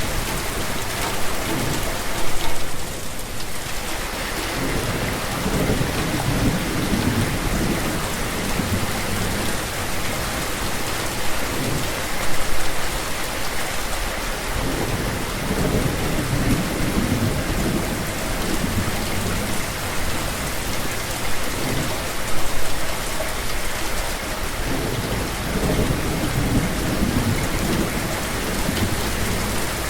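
Steady rain falling, with low rumbles of thunder swelling and fading, and a brief louder peak about every ten seconds.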